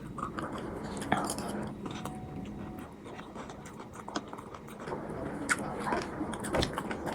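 Mouth sounds of someone chewing chatpate, a crunchy spicy puffed-rice snack, with scattered short clicks.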